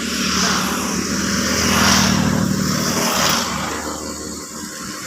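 A motor vehicle's engine passing, growing louder to a peak about two seconds in and then fading.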